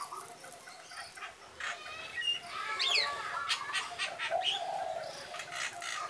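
Birds chirping: a run of short chirps and quick rising-and-falling whistled calls, busiest in the middle seconds, with a lower warbling call a little later.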